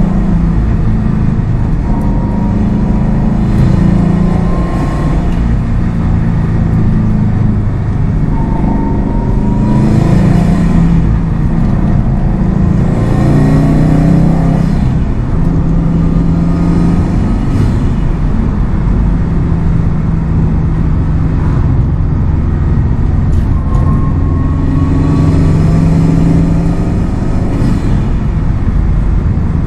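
Subaru WRX STI's turbocharged flat-four engine pulling the car along under way, its note climbing and dropping as it runs through the gears. A rising whine comes up over it a few times.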